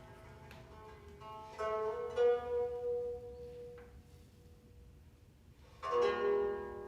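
Music on a plucked string instrument: a few notes struck about one and a half to two and a half seconds in, one of them ringing on and slowly fading, then a louder, fuller chord struck near the end.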